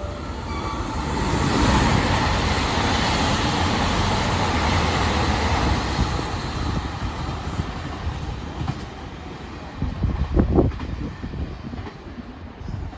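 HOT7000-series diesel limited express train passing through the station at speed. Its rushing wheel and engine noise builds over about two seconds, holds for a few seconds, then fades. A short cluster of low thumps comes about ten seconds in.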